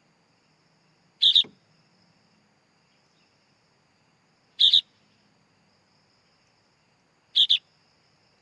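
Sooty-headed bulbul chick calling: three short two-note calls, about three seconds apart, over a faint steady high hum.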